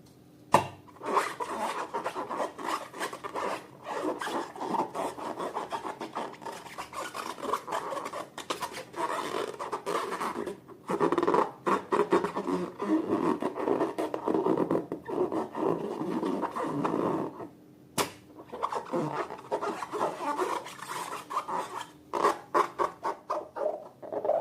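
Slime being mixed and squished by hand or spatula: a dense stream of small sticky crackles and squelches, broken by brief pauses.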